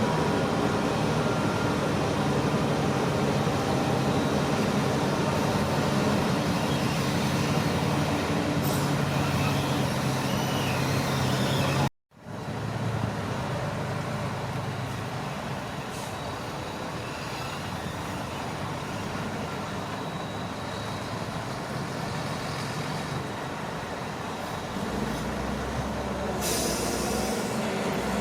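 Shantui crawler bulldozer's diesel engine running steadily with a low hum. The sound cuts out for a moment about twelve seconds in, then resumes a little quieter.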